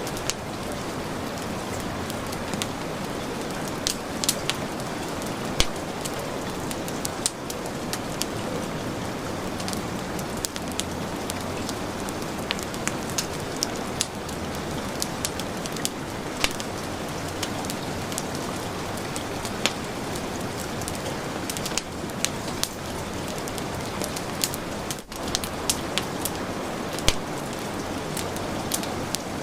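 Heavy rain falling in a steady hiss, mixed with a crackling wood fire whose sharp pops and snaps come irregularly throughout.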